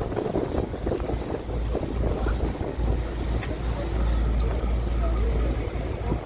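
Wind buffeting the microphone on a moving cruise boat, over a low, steady rumble of the boat under way; the rumble grows heavier about a second and a half in.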